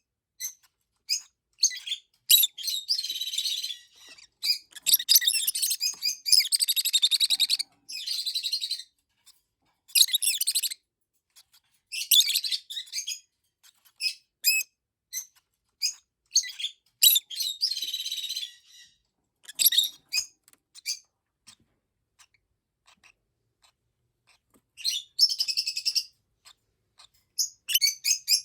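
Peach-faced lovebirds chirping, with bursts of rapid, buzzy chatter a second or two long broken up by single sharp chirps. The calls thin out for a few seconds about three quarters of the way through.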